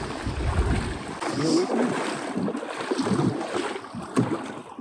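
Kayak paddling through shallow marsh water, with paddle splashes and water sounds around the hull. Wind buffets the microphone in the first second, and a single knock comes about four seconds in.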